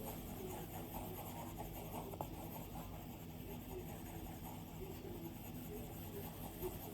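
Stylus tip (Apple Pencil) drawing on an iPad's glass screen: soft, continuous scratching strokes with a single light tap about two seconds in, over a steady low hum.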